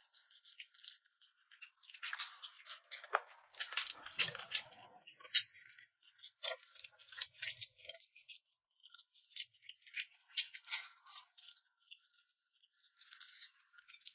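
A person eating close to the microphone: quiet, irregular chewing and biting on a braised chicken leg and mango, with short crunchy, crackly sounds.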